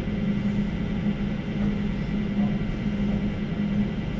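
Elizabeth line Class 345 train running at speed through a tunnel, heard inside the carriage: a steady rumble, with a low hum that pulses on and off about twice a second.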